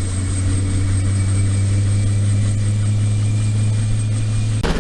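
UH-60M Black Hawk helicopter running on the ground while warming up: a steady, loud low drone with a thin high turbine whine above it. The sound cuts off abruptly near the end.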